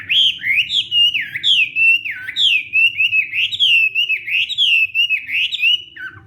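Chinese hwamei (hoạ mi) singing a loud, fast run of whistled phrases, notes sliding up and down in quick succession, breaking off with a falling note about six seconds in.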